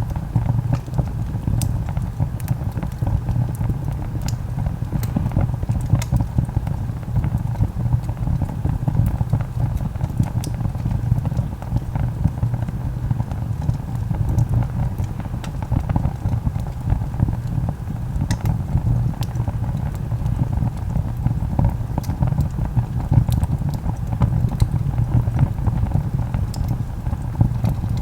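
Wood log fire burning: a steady low roar with frequent sharp crackles and pops at irregular intervals.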